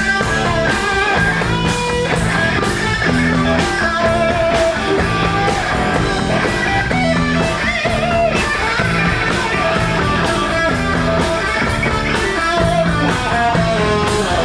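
Live rock band playing an instrumental intro: electric guitar riff over bass guitar and drum kit, with no vocals yet.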